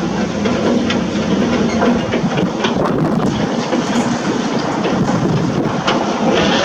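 Heavy construction machinery at work: a diesel engine running steadily under frequent irregular metallic clanks and knocks.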